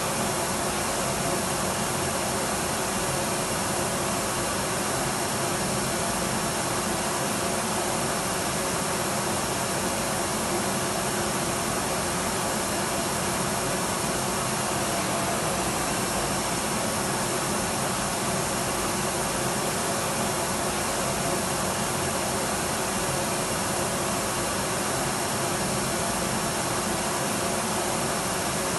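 Electric vacuum cleaner running continuously: a steady, even rushing noise with a faint motor hum underneath, unchanging in pitch and level.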